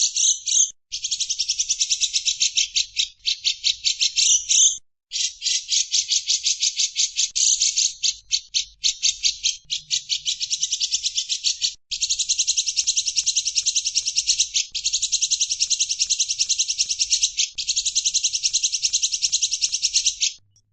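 Recorded songbird chattering: long runs of rapid, high-pitched notes, roughly ten a second, broken by brief pauses a few times.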